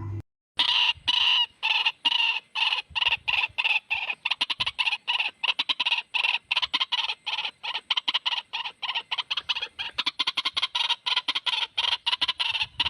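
White-breasted waterhen (ruak-ruak) calls from a bird-lure recording: a fast run of short, repeated harsh notes, about five a second, starting about half a second in after a brief break.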